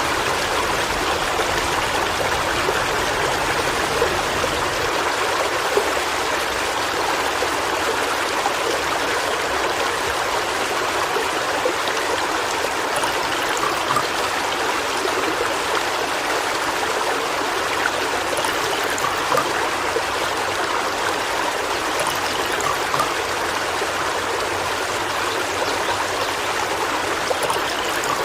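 A waterfall running: falling water splashing in a steady, even rush.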